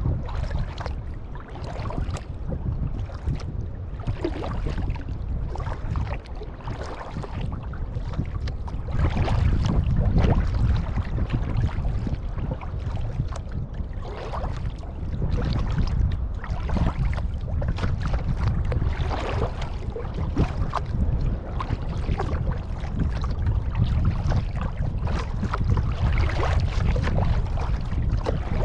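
Kayak paddling: the paddle blades splash and dip into the water in irregular strokes, over a heavy rumble of wind on the microphone.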